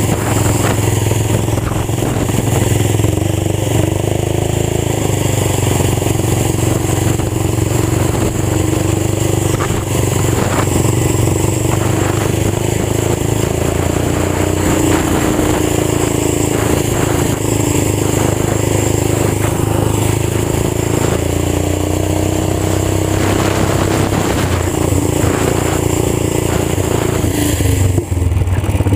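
Old tractor engine with a fully open exhaust running steadily under load, its pitch wavering a little. About a second before the end the note briefly drops and then picks back up.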